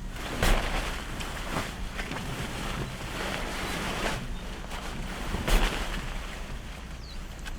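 Steady rain with wind, a continuous rushing hiss, broken by a few sudden thumps, the loudest near the start and again about two seconds before the end.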